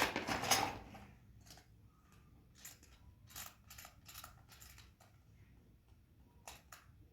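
Scattered light clicks and rustles of things being handled, louder in the first second.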